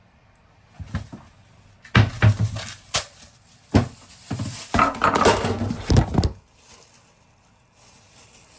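Kitchen handling sounds: a series of knocks and clatters of dishes and containers being moved and set down, stopping about six seconds in.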